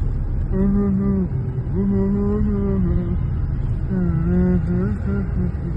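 Steady low rumble of a road vehicle. Over it, a voice makes three long, held pitched sounds, about a second or more each, with no words.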